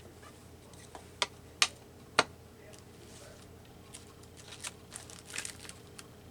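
Paper being handled on a craft table: three sharp taps about a second apart, then light rustling and crinkling of paper.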